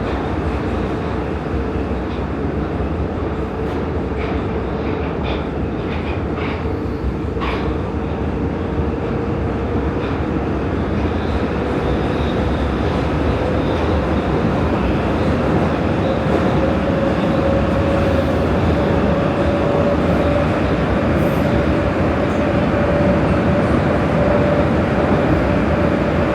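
Prague metro Line A train running through a tunnel: a steady heavy rumble with a motor whine that slowly rises in pitch and grows a little louder, and a few faint ticks early on.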